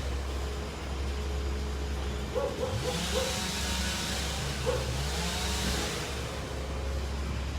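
Heavy engine of tree-service equipment running steadily, revving up twice with a rising pitch, with a hiss in the middle.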